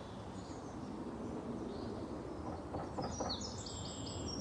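Steady low background noise, with a bird starting to chirp about three seconds in: a quick run of short, high chirps.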